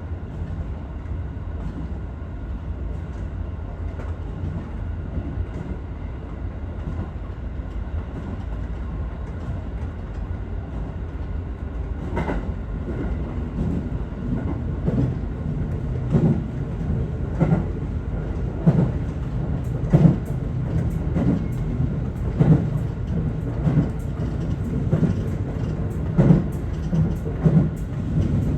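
Aichi Loop Railway 2000 series electric train running, heard from inside the front car: a steady low rumble. From about twelve seconds in, the wheels clatter over rail joints in repeated, often paired clunks that grow louder.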